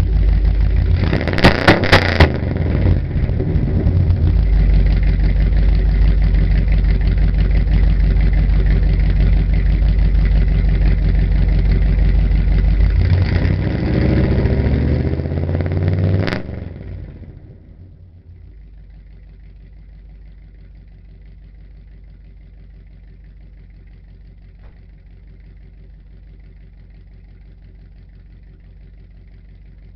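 1986 Chevy K10's 350 V8 running loud through headers and glasspack dual exhaust, with a few sharp pops about two seconds in. The engine revs up about two thirds of the way in, then the sound drops away to a low, steady hum.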